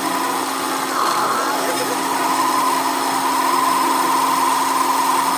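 A workshop machine runs steadily with a constant whine that grows a little stronger about two seconds in.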